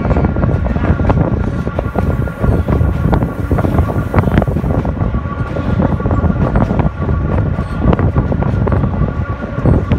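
Sóller railway's narrow-gauge electric train running, heard from aboard: a steady rumble with fine rapid clatter of wheels over the rails, and a steady high tone above it.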